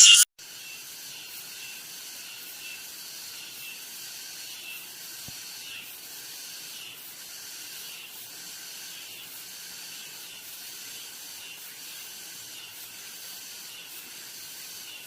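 Cicadas singing in a steady high buzz with a faint regular pulse, cutting off abruptly at the end.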